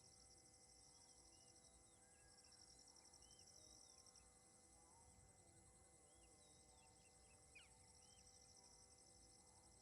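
Faint insects trilling, cricket-like, in long pulsed stretches that fade in and out, with a few faint short chirps between them.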